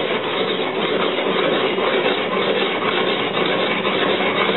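Steel sword blade, made from leaf-spring steel, being rubbed on an India oil stone: a steady, gritty scraping that goes on without a break.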